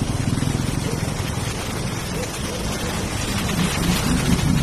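A vehicle engine running with a low rumble under a steady rushing noise while fording a river.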